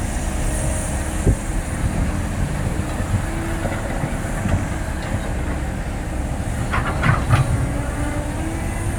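Cat excavator's diesel engine running steadily under load while digging hard soil, with a sharp knock about a second in and a few metal scrapes and clanks from the bucket near the end.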